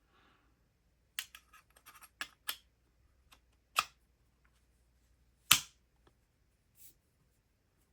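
Scattered small clicks and taps from an electric lock pick gun's parts being handled and fitted back together. A quick run of clicks comes about a second in, and the sharpest click a little past halfway.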